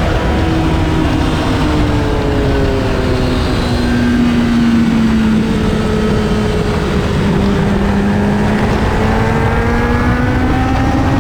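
2008 Honda CBR600RR's inline-four engine heard from on board at speed over a constant rush of wind noise. Its note falls over the first few seconds as the bike slows, then climbs steadily again as it pulls away.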